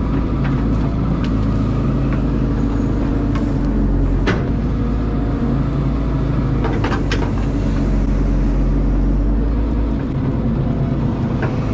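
Caterpillar excavator's diesel engine running steadily under work, with a few sharp knocks: one about four seconds in and a short cluster around seven seconds.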